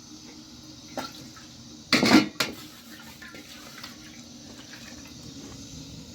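Scattered clinks and knocks, with a short, loud rush of water about two seconds in.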